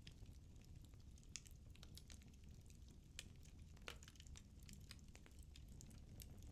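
Firewood burning in a fireplace, crackling faintly: irregular sharp snaps and pops, the strongest about four seconds in, over a low steady rumble of flame.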